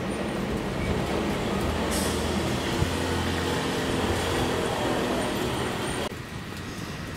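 Hankyu 1300 series electric train moving away over junction trackwork: a steady rumble of wheels on rail with a low motor hum. The sound drops off suddenly about six seconds in, leaving a quieter background.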